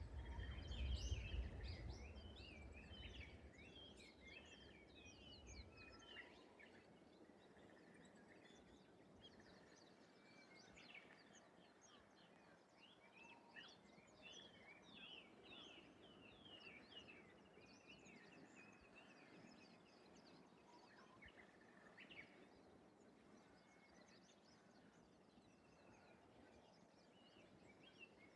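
Faint outdoor ambience of many small birds chirping and twittering in quick short notes, in busy bursts near the start and again in the middle, over a soft hiss. A low rumble sits under the first several seconds.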